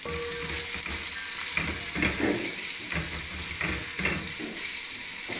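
Julienned carrots sizzling in hot oil in an aluminium pot, stirred and turned with a silicone spatula, giving a steady hiss with a stroke of the spatula about once or twice a second.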